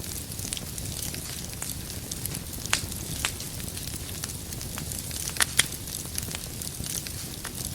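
Wood fire in a fireplace crackling, with irregular sharp pops over the steady low rush of the flames. The loudest pops come a little under three seconds in, again just after three seconds, and as a close pair about five and a half seconds in.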